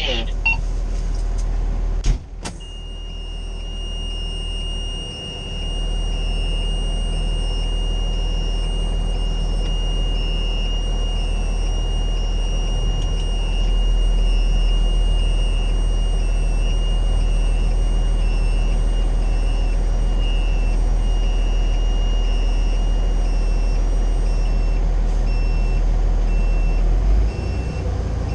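Fire engine's Cummins L9 diesel running, heard from inside the cab as a steady low rumble. A sharp click comes about two seconds in. Then a steady high electronic tone starts and holds, turning into a pulsing beep near the end.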